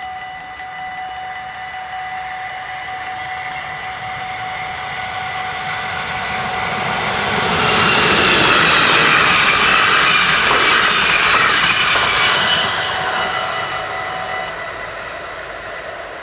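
Level-crossing warning bells ringing steadily while an NS DDZ double-deck electric intercity train passes through at speed. The train's rush builds and is loudest from about eight to thirteen seconds in, then fades. The bells stop about fourteen seconds in as the barriers begin to lift.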